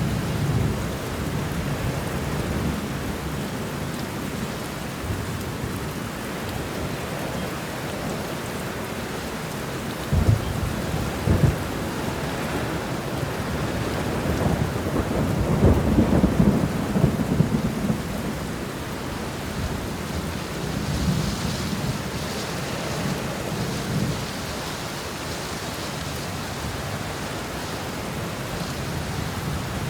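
Steady rain falling, with rolling thunder: two short cracks about ten seconds in, then a longer, louder rumble a few seconds later.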